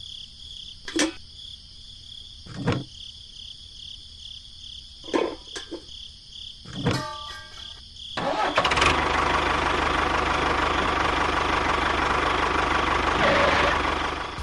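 An engine or motor starts suddenly about eight seconds in and runs loudly and steadily. Before that there is a steady high chirping background with a few short clicks.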